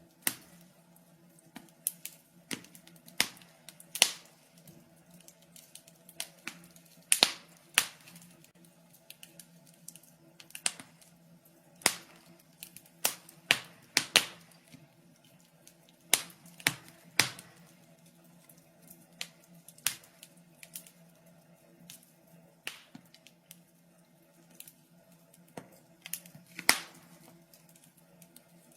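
Wood fire in a fireplace crackling: sharp, irregular pops and snaps at uneven intervals, some louder than others, over a faint low steady hum.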